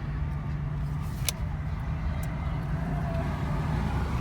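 Dodge Charger Scat Pack's 6.4-litre HEMI V8 running steadily at low revs: an even, low rumble with no revving, and a single short click about a second in.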